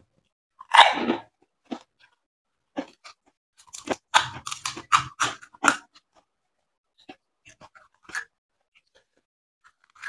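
Crisp fried fuchka (panipuri) shell being bitten and chewed close to the microphone: a loud first bite about a second in, then a run of sharp crunches from about four to six seconds in, fading to faint scattered chewing.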